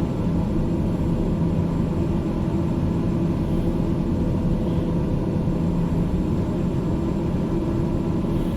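Steady drone of a landing airliner's engines and airflow, with a few constant hum tones underneath and no change in level.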